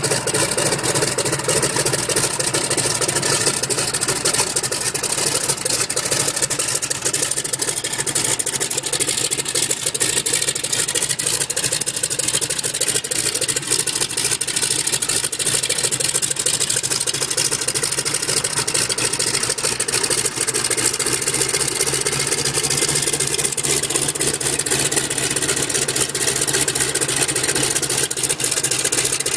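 Boeing Stearman biplane's radial engine running steadily, a fast, even beat of firing pulses with a small shift in tone about two-thirds of the way through.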